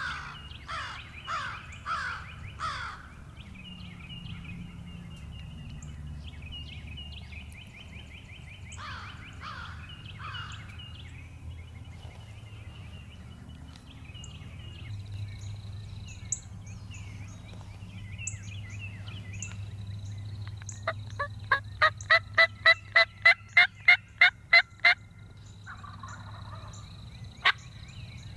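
Wild turkey gobbling in the distance amid a dawn chorus of songbirds, over a low steady hum. Near the end comes a loud run of about fourteen evenly spaced calls.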